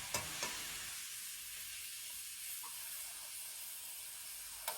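Food sizzling steadily in a hot wok, a light high hiss, with a few clicks of the spatula near the start and near the end.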